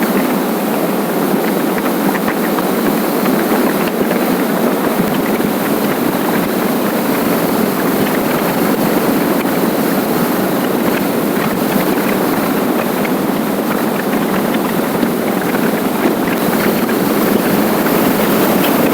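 Steady rush of wind and road noise from a motorcycle riding at speed, with no distinct engine note standing out.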